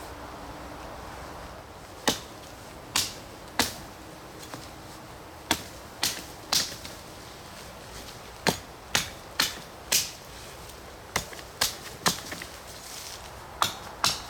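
A string of sharp, irregular clicks or snaps over a steady low hiss, starting about two seconds in and coming roughly once or twice a second at uneven spacing.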